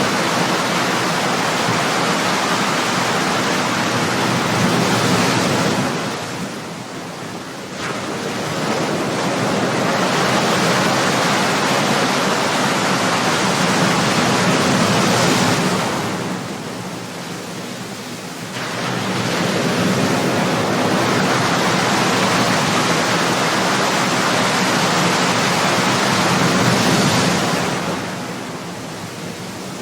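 Ocean surf: waves breaking and washing up one after another, each a long rushing surge followed by a brief lull, about every ten seconds.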